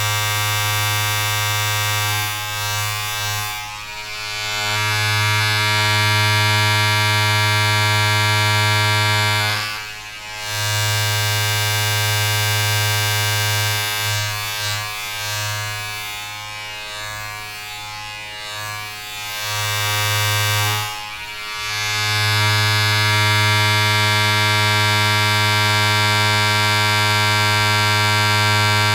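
Steady electric buzz with many overtones, like a small motor running. It dips in level a few times, most deeply about ten seconds and about twenty-one seconds in.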